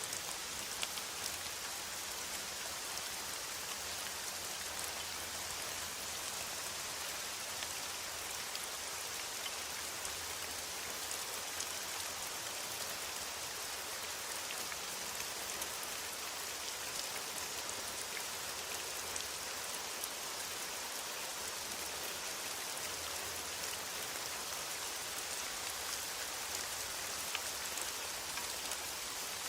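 Steady rain falling in a forest, an even hiss with scattered drops ticking on leaves.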